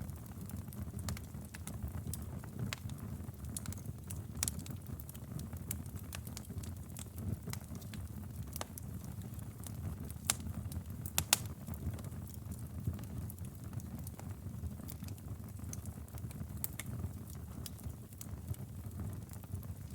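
Wood fire burning in a fireplace: a low steady rumble of flame under scattered crackles and pops, with a few louder sharp pops around the middle.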